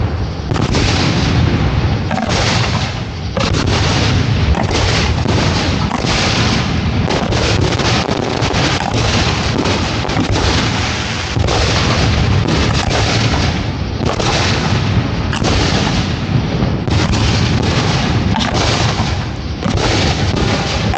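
Fireworks shells launching and bursting in a dense, continuous barrage of overlapping booms and bangs, with no pauses.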